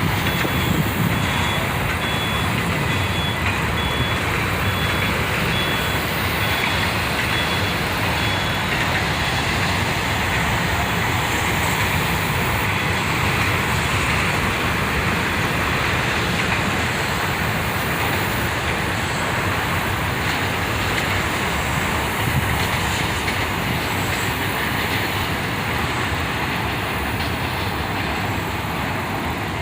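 Long Norfolk Southern auto rack freight train rolling past, with a steady rumble of steel wheels on rail that eases slightly near the end. A faint, pulsing high tone is heard during the first several seconds.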